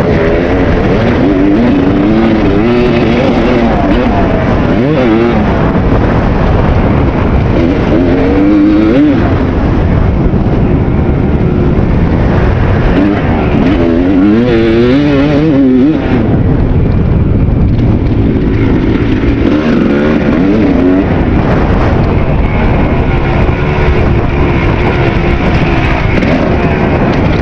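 Kawasaki KX250 two-stroke dirt bike engine under riding load, its pitch rising and falling over and over as the throttle opens and closes. A constant rush of noise runs underneath.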